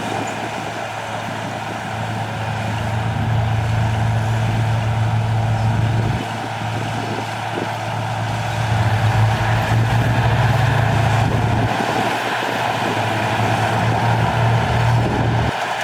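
Heavy diesel engine of earthmoving equipment running steadily, its level rising and dropping several times as the load changes.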